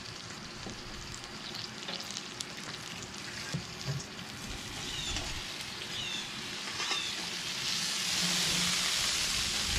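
Bacon-wrapped meatloaf frying on a Blackstone flat-top griddle under an upturned stainless steel bowl, a steady sizzle. Near the end the sizzle grows louder and brighter as the bowl is lifted off.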